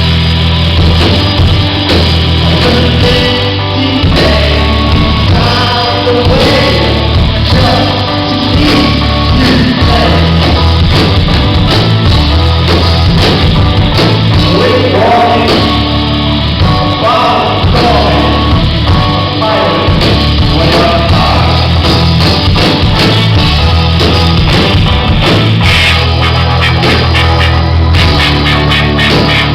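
A rock band playing a song with a singer's vocals over guitar, bass and drums, loud and without a break.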